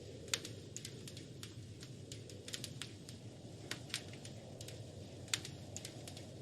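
Wood fire crackling in a fireplace: irregular sharp pops and snaps over a steady low rumble of the flames, with the loudest pops about a third of a second in and near the end.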